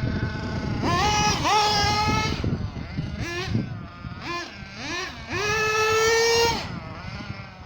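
Small nitro engine of an Ansmann Virus 2.1 RC buggy revving in bursts. The high whine climbs, holds for a second or so and drops off, with short blips in between and a long full-throttle run about five seconds in.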